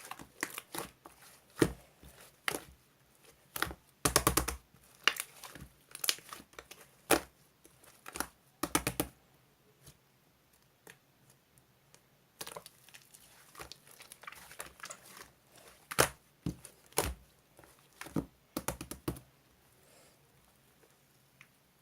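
Irregular crinkling and sharp tapping clicks from things being handled, with a few quick runs of taps and a pause midway.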